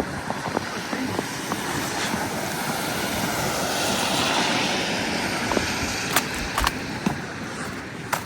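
A vehicle passing on the street: tyre and road noise swells to a peak about halfway through and fades. Scattered sharp clicks sound over it.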